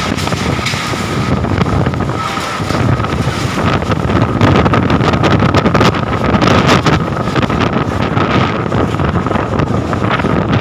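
Strong gusting wind buffeting the microphone, growing louder about four seconds in, with a faint steady whine underneath.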